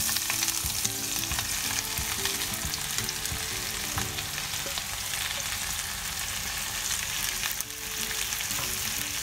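Sliced onions sizzling in hot coconut oil in a frying pan, a steady crackling hiss as handfuls are pushed in from a plate, easing briefly near the end.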